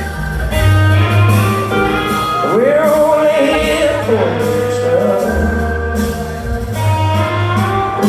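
Rock band playing live through a loud PA: sustained electric guitar chords over a heavy bass line, with the male lead singer sliding up into a long held note about midway.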